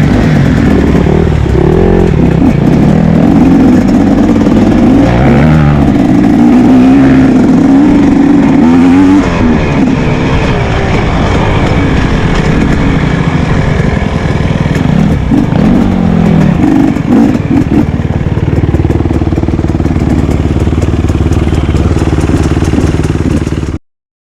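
Motocross motorcycle engines, loud, revving with the pitch rising and falling, then settling into a steadier note for the last few seconds before the sound cuts off abruptly.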